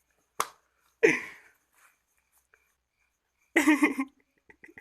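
A short tap, then two brief vocal outbursts from a person, the second, about three and a half seconds in, the louder.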